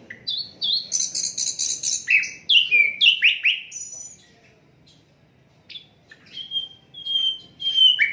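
A sikatan londo flycatcher singing a varied, rapid song: a fast high trill and a string of quick down-slurred whistles, then after a short pause a run of short level whistles.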